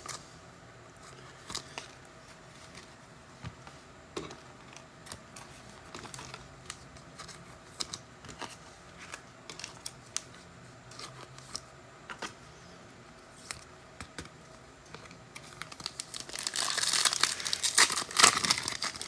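Scattered light clicks and taps of trading cards being handled, then near the end a card pack's foil wrapper torn open and crinkled for a couple of seconds.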